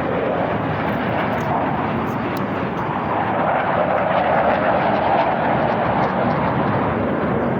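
Airplane engine noise from an aircraft flying past: a steady, loud roar that swells to its loudest in the middle and then eases slightly.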